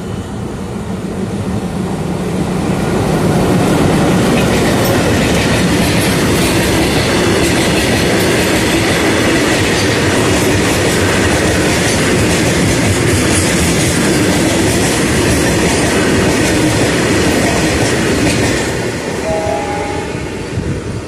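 Empty goods train with a WDM3A diesel locomotive passing close by, its empty wagons rolling and clattering over the rail joints in a steady loud rumble. The sound builds about two seconds in and fades near the end as the last wagons pass.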